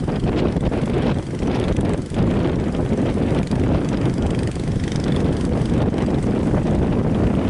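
Strong wind buffeting the microphone over the steady running of a fishing boat's engine, heading out through the waves.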